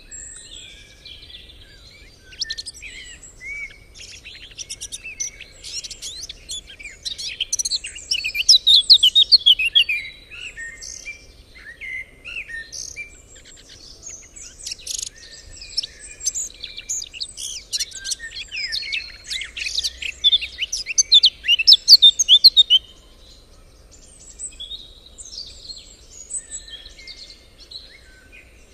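Songbirds singing and chirping, several calls overlapping, with louder rapid trilling phrases twice, about a third of the way in and again about three quarters through.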